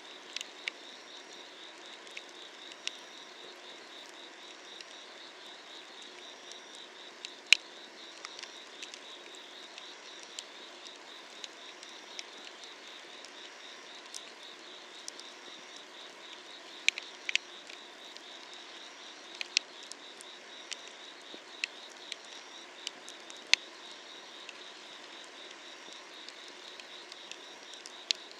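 Wood fire crackling under an iron cauldron, with irregular sharp pops, the loudest about seven seconds in. Summer-night insects trill steadily behind it, one of them chirping about once a second.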